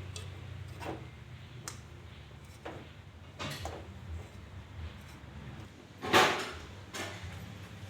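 A series of short knocks and clatters, about seven in all, the loudest one about six seconds in, over a low steady hum.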